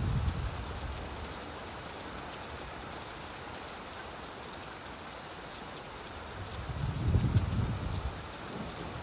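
Steady rain falling, with a low rolling rumble of thunder that swells about seven seconds in and fades again.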